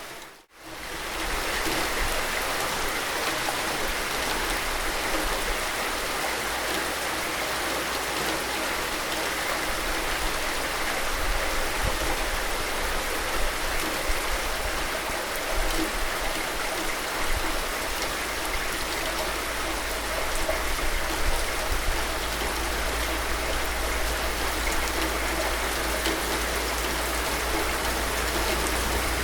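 Steady heavy rain, an even hiss with scattered louder drops and patters. The sound cuts out briefly about half a second in, then resumes.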